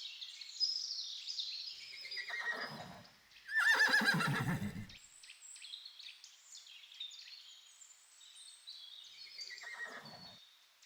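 A horse whinnying. A call falls in pitch into a loud, quavering neigh about four seconds in, and a fainter falling whinny follows near the end.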